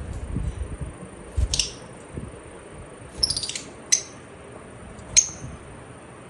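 Lovebird giving about four short, shrill chirps spread over a few seconds, with a few soft low thumps early on.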